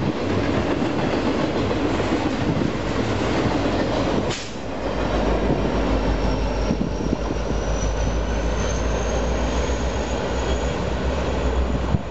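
Union Pacific double-stack container cars rolling past on the rails with steady wheel noise and a single clank a little after four seconds in. The rear diesel locomotive then passes, adding a strong low engine drone, with a faint high wheel squeal rising slowly over it.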